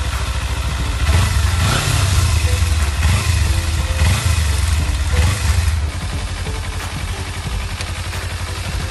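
Kawasaki Z250 motorcycle engine held at raised revs for about five seconds, then dropping back to idle. The throttle is being worked gently while a carbon-cleaner flush is drawn through the intake and burned off through the exhaust.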